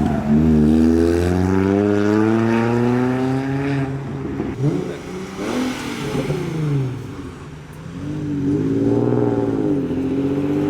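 A car engine accelerating, its pitch climbing for about four seconds, then revving up and falling back twice more.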